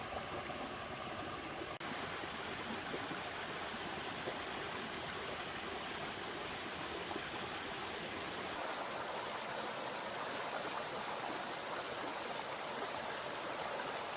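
Creek water rushing over rocks: a steady hiss of flowing water whose character changes abruptly about two seconds in and again just past halfway, becoming brighter and fuller.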